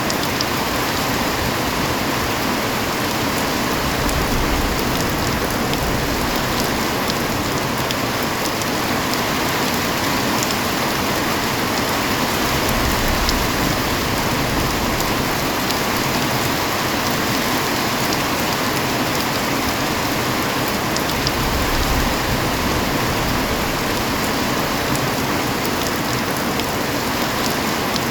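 Heavy rain falling steadily on surfaces, a dense even hiss with many fine drop ticks.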